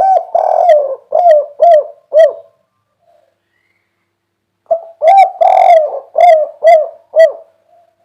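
Spotted dove cooing close to the microphone: two song phrases about four seconds apart, each a long drawn coo followed by three short clipped coos, the three-note ending that dove keepers call 'kuk 3'.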